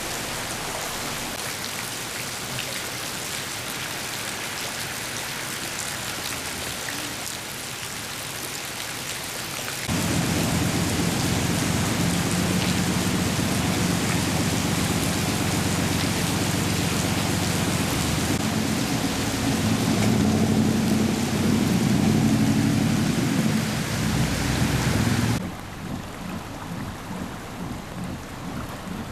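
Heavy rain falling steadily. About a third of the way in a loud low rumble joins it, and it stops suddenly near the end, leaving softer rain.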